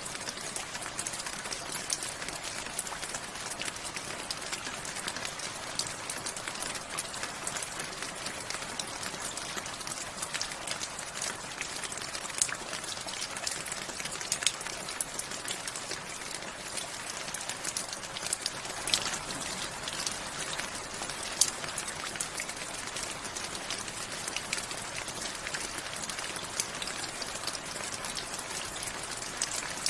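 Steady rain falling, an even hiss with many sharp ticks of single drops striking close by.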